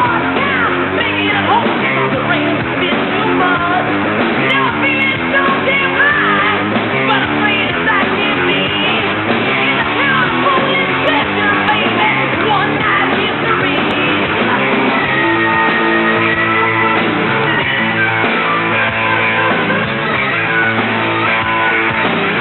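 Hard rock song with electric guitar, drums and singing, played loud and steady. The sound is muffled, with nothing above the upper midrange, as on a worn VHS copy of a TV broadcast.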